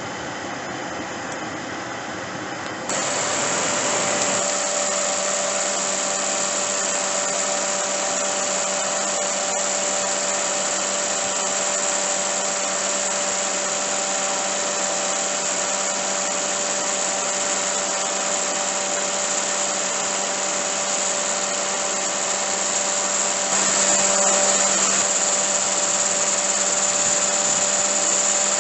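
Kei car's engine running with the air conditioner on: a steady mechanical hum with a whine and hiss. It gets louder about 3 seconds in and again a few seconds before the end.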